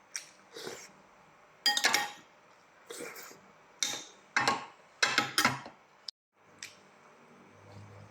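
Close-miked eating sounds: short bursts of chewing and mouth smacking at irregular intervals about a second apart. A low steady hum comes in near the end.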